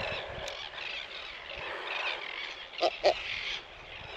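Many seabirds calling at once from a nesting colony, a steady chatter of cries, with two louder single calls close together about three seconds in.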